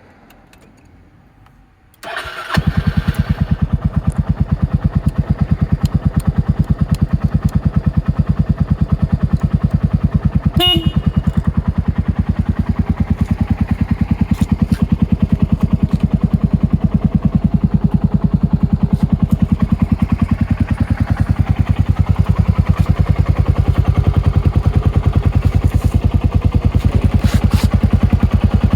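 Suzuki Skywave 250 SS scooter's single-cylinder four-stroke engine cranked on the electric starter about two seconds in, catching at once and settling into a steady, evenly pulsing idle. A brief high squeak cuts through about ten seconds in.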